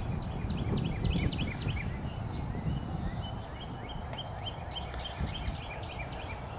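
Small birds chirping in quick runs of short high notes over a low background rumble.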